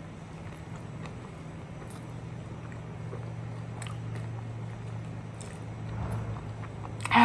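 Close-up chewing of a crumb-coated fried risoles, with faint crunchy clicks here and there over a steady low hum. A brief loud mouth noise comes at the very end.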